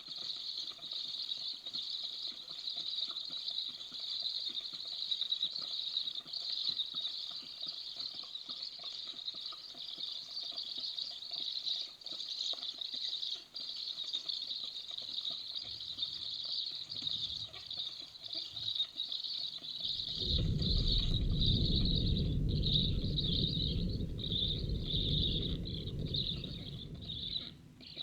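Steady hiss of rain in a forest thunderstorm. About two-thirds of the way in, a loud, deep rumble of thunder rolls for several seconds and then fades.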